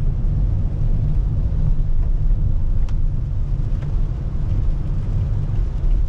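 Steady low rumble of a car driving on a wet road in the rain, with a faint even hiss over it. Two light ticks come about three and four seconds in.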